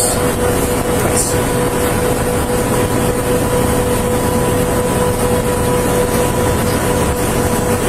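A vehicle engine idling steadily, with a constant hum and a steady whine that do not change.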